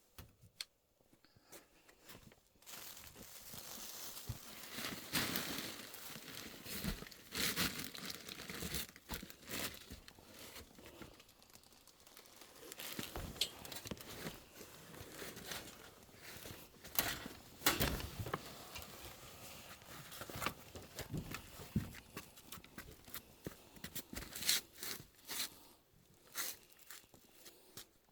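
Plastic packaging being torn open and crumpled by hand: irregular rustling and crackling with sharp crinkles, starting about two and a half seconds in.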